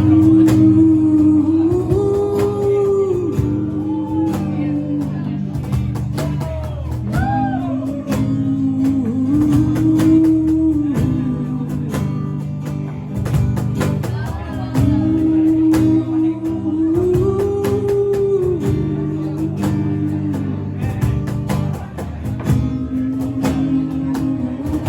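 Singing a slow melody in long held notes over guitar accompaniment: a cover of a song.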